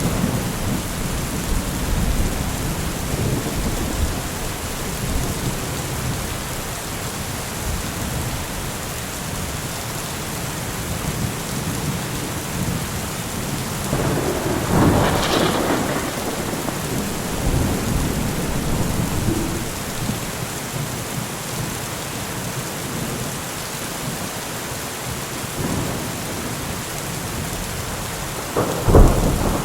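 Steady rain falling in a thunderstorm, with low thunder rumbling throughout. A louder rumble swells about halfway through, and a sharp, loud thunderclap comes near the end.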